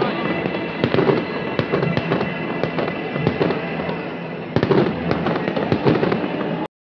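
Aerial fireworks bursting in quick succession, a dense run of sharp bangs and crackles, with music playing behind them. A fresh volley of bangs comes about four and a half seconds in, and the sound cuts off abruptly near the end.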